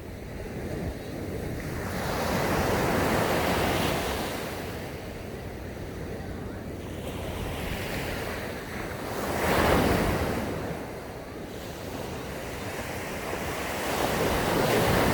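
Sea waves breaking and washing up a sandy beach, surging in three swells. The loudest comes about two-thirds of the way through. Wind rumbles on the microphone.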